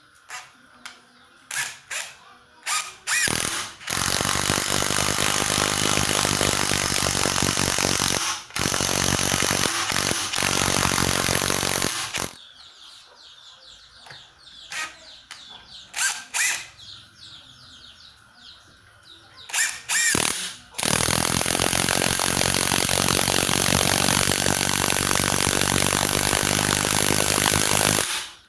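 Stanley SBI201D2K 18 V cordless impact driver running in bursts. Several short trigger blips come first, then three long runs of several seconds each, with more brief blips between the second and third run.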